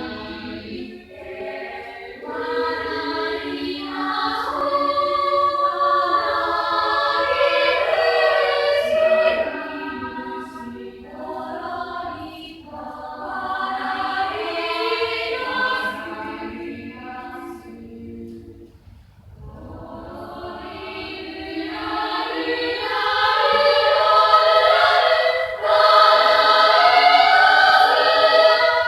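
School chorus singing in harmony during rehearsal, in phrases, with a brief pause about two-thirds through before the singing swells louder.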